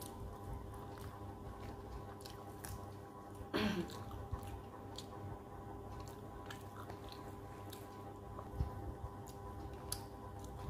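Close-up mouth sounds of a person eating rice and fish curry by hand: soft chewing with many small wet clicks and smacks, over a steady faint hum. One louder short sound with a falling pitch comes about three and a half seconds in.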